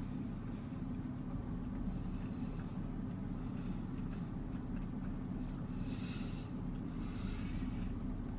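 A mouthful of corn dog being chewed slowly, with faint chewing noises about six and seven seconds in, over a steady low hum like a car engine idling.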